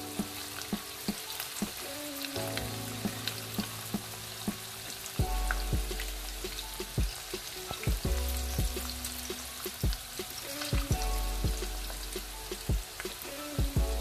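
Egg-and-cornflour-coated chicken pieces deep-frying in hot oil in a pan, a steady sizzle, with background music of held notes and a deep bass line underneath.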